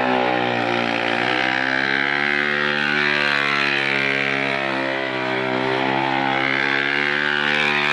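Motorcycle engine held at steady high revs, its pitch sagging briefly about a second in and again around five seconds.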